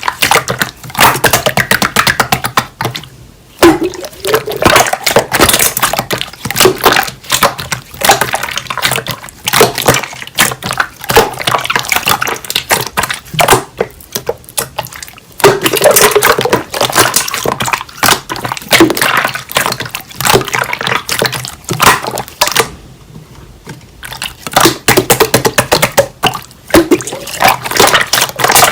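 Slime being squished, pressed and poked by hand, giving many quick, irregular wet clicks and pops with a few short pauses.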